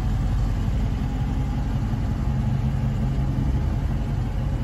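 Dodge Charger Scat Pack's 6.4-litre 392 Hemi V8 idling steadily.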